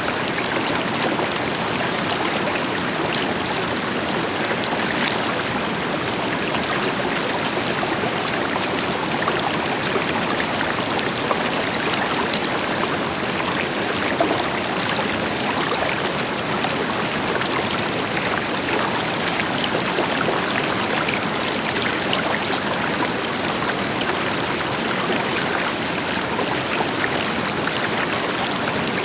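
A river flowing steadily over rocks, with many small splashes and trickles and a deeper rush from a waterfall blended in.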